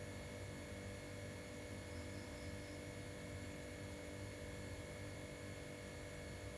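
A steady low hum with several constant tones over a faint, even hiss.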